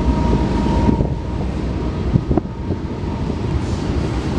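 Freight train cars rolling past with a steady low rumble, with wind on the microphone. A faint high steady tone fades out about a second in, and there is a single sharp clack a little past the middle.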